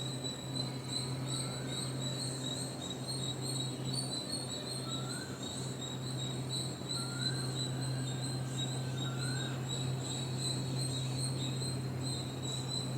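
Crickets trilling in a steady, high, fast-pulsing chorus. A few faint short rising whistles come in about four times, over a low steady hum.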